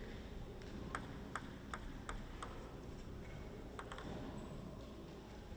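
Faint, quick clicks of a table tennis ball knocking back and forth in a rally, about three a second, over steady low hall noise.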